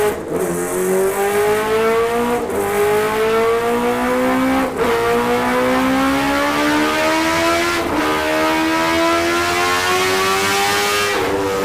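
A high-revving vehicle engine accelerating hard through the gears: the pitch climbs slowly in each gear and drops back at each upshift, about four shifts spaced two to three seconds apart.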